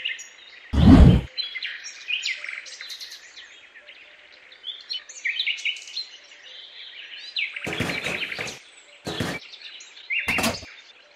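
Small birds chirping and singing. There is a heavy thump about a second in, and three short rustling knocks in the last four seconds.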